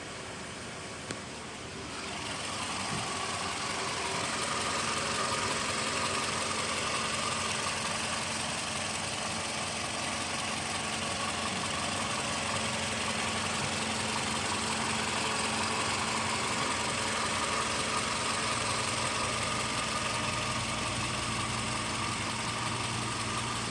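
Toyota RAV4 engine running steadily at idle, getting louder about two seconds in.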